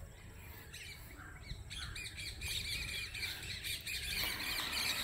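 Small birds chirping and chattering in quick repeated calls, getting busier about two seconds in, over a low steady rumble.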